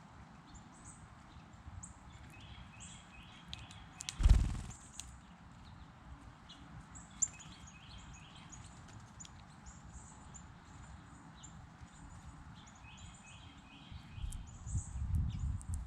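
Small songbirds chirping over and over, with short quick series of notes repeating several times. A single loud thump about four seconds in, and irregular low knocking and rumbling near the end.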